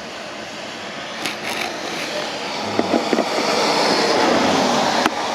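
A rushing noise from a passing vehicle builds steadily to a peak near the end, with a few light clicks.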